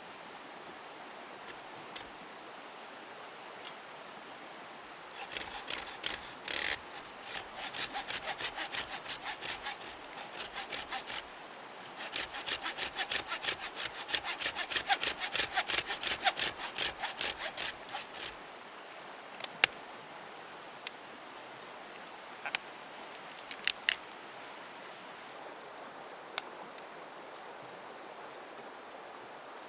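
Hand saw cutting firewood: two runs of quick, even back-and-forth strokes with a short pause between them, followed by a few scattered knocks.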